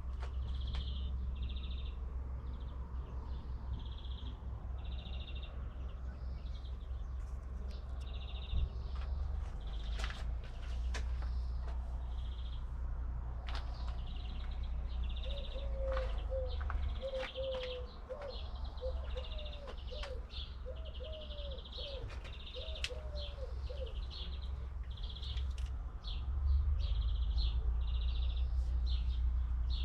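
Birds chirping outdoors, short chirps repeating about once a second. A lower series of short calls comes in the middle, over a steady low rumble.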